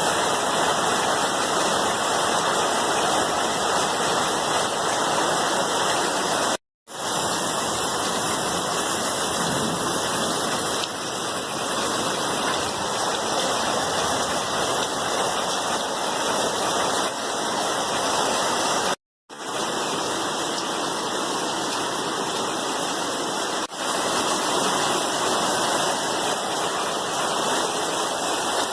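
Steady, even rain sound. It cuts out to silence for a split second twice, about seven and nineteen seconds in.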